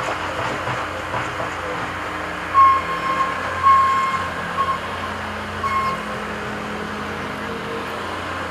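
Engines of construction machines running steadily, with four short, high-pitched beeps of uneven length between about a third and two-thirds of the way in.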